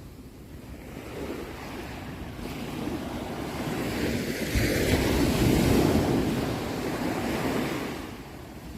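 Ocean waves: a wave surges in over a few seconds, breaks loudest around the middle, and washes back down near the end.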